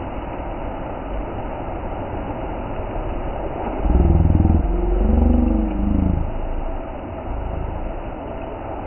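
Steady rush of a waterfall. From about four seconds in, a louder, low pitched rumble rises and falls in pitch for a few seconds.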